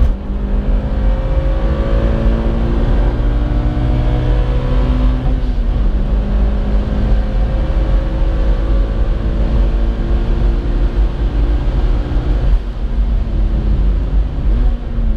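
Mitsubishi Lancer Evolution IX's turbocharged four-cylinder engine pulling hard, heard from inside the cabin. The engine note climbs slowly and drops sharply at gear changes about five and a half and twelve and a half seconds in.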